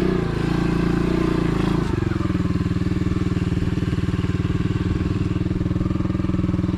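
A cheap 125cc single-cylinder pit bike engine running steadily at a low, constant speed, its pitch holding level. The sound shifts about two seconds in, then carries on unchanged.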